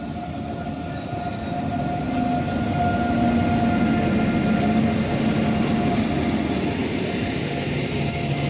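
Indian Railways WAP-7 electric locomotive running past close alongside the platform, followed by its passenger coaches. A dense rumble and clatter of wheels builds over the first few seconds and then holds, with a steady hum over it and a thin high ring of the wheels creeping in near the end.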